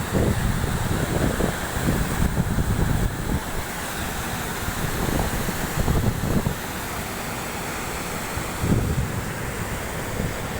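Rushing water, a steady full noise with no tones, mixed with wind buffeting the microphone in uneven low gusts.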